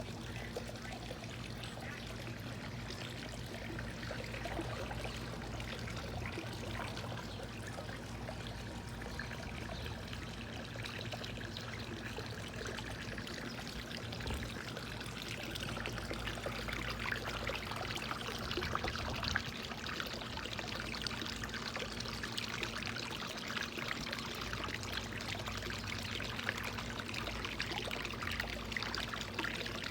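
Steady rush of running, trickling water, a little louder in the second half, over a low steady hum.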